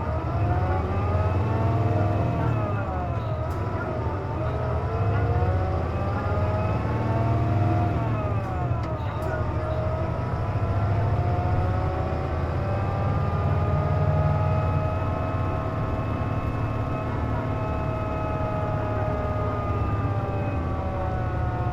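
Interior of a KC-JP250NTN bus under way: a low engine drone with a loud whining tone on top. The whine drops and climbs again twice in the first half, then holds steady and slowly rises. It is the abnormal noise the uploader says this bus makes when its air conditioning is running.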